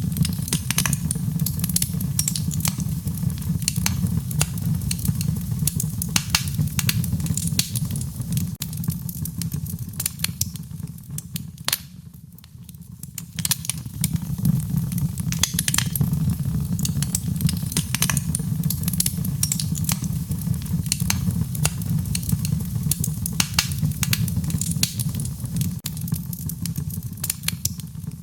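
Wood fire crackling, with frequent sharp pops and snaps over a steady low rumble. The fire goes quieter for a moment about twelve seconds in, then picks up again.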